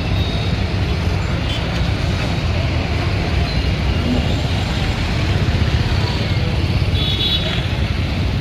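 Car engines and road traffic making a steady, dense low rumble, with a short horn toot about seven seconds in.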